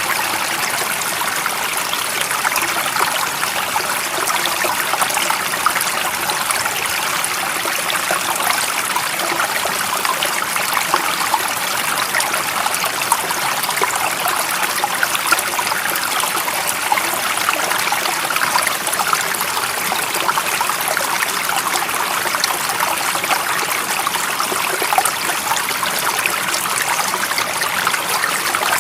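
A stream of water running and trickling with a steady bubbling rush, its sound sitting mostly in the middle and high range, with no pauses or changes.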